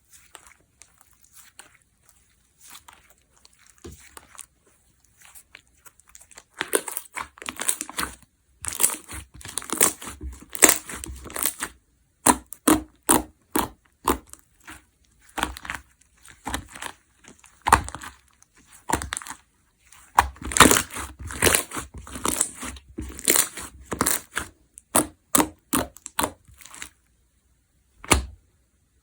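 Jiggly water-jelly slime being pressed and squeezed by hand, giving a quick run of short crackling, squishing pops. The pops are faint and sparse at first and come thick and loud from about six seconds in. They stop shortly before the end, with one last squish.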